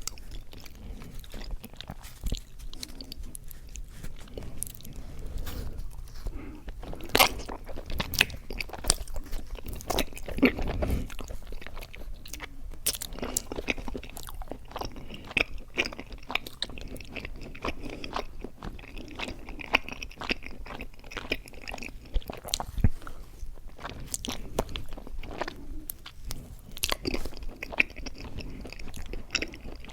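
Close-miked chewing and biting of mochi ice cream: a constant run of irregular mouth clicks and smacks, with a few sharper bites about a third of the way in.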